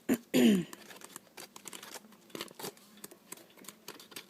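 Sheets of patterned craft paper rustling and rubbing as they are handled and leafed through, with scattered light ticks and clicks.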